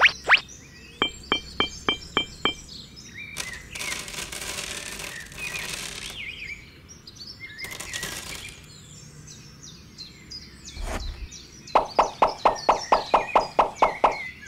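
Quick runs of bird chirps, about five a second, near the start and again near the end. In between come two stretches of gritty rustling as small decorative gravel is poured by hand, and a single knock.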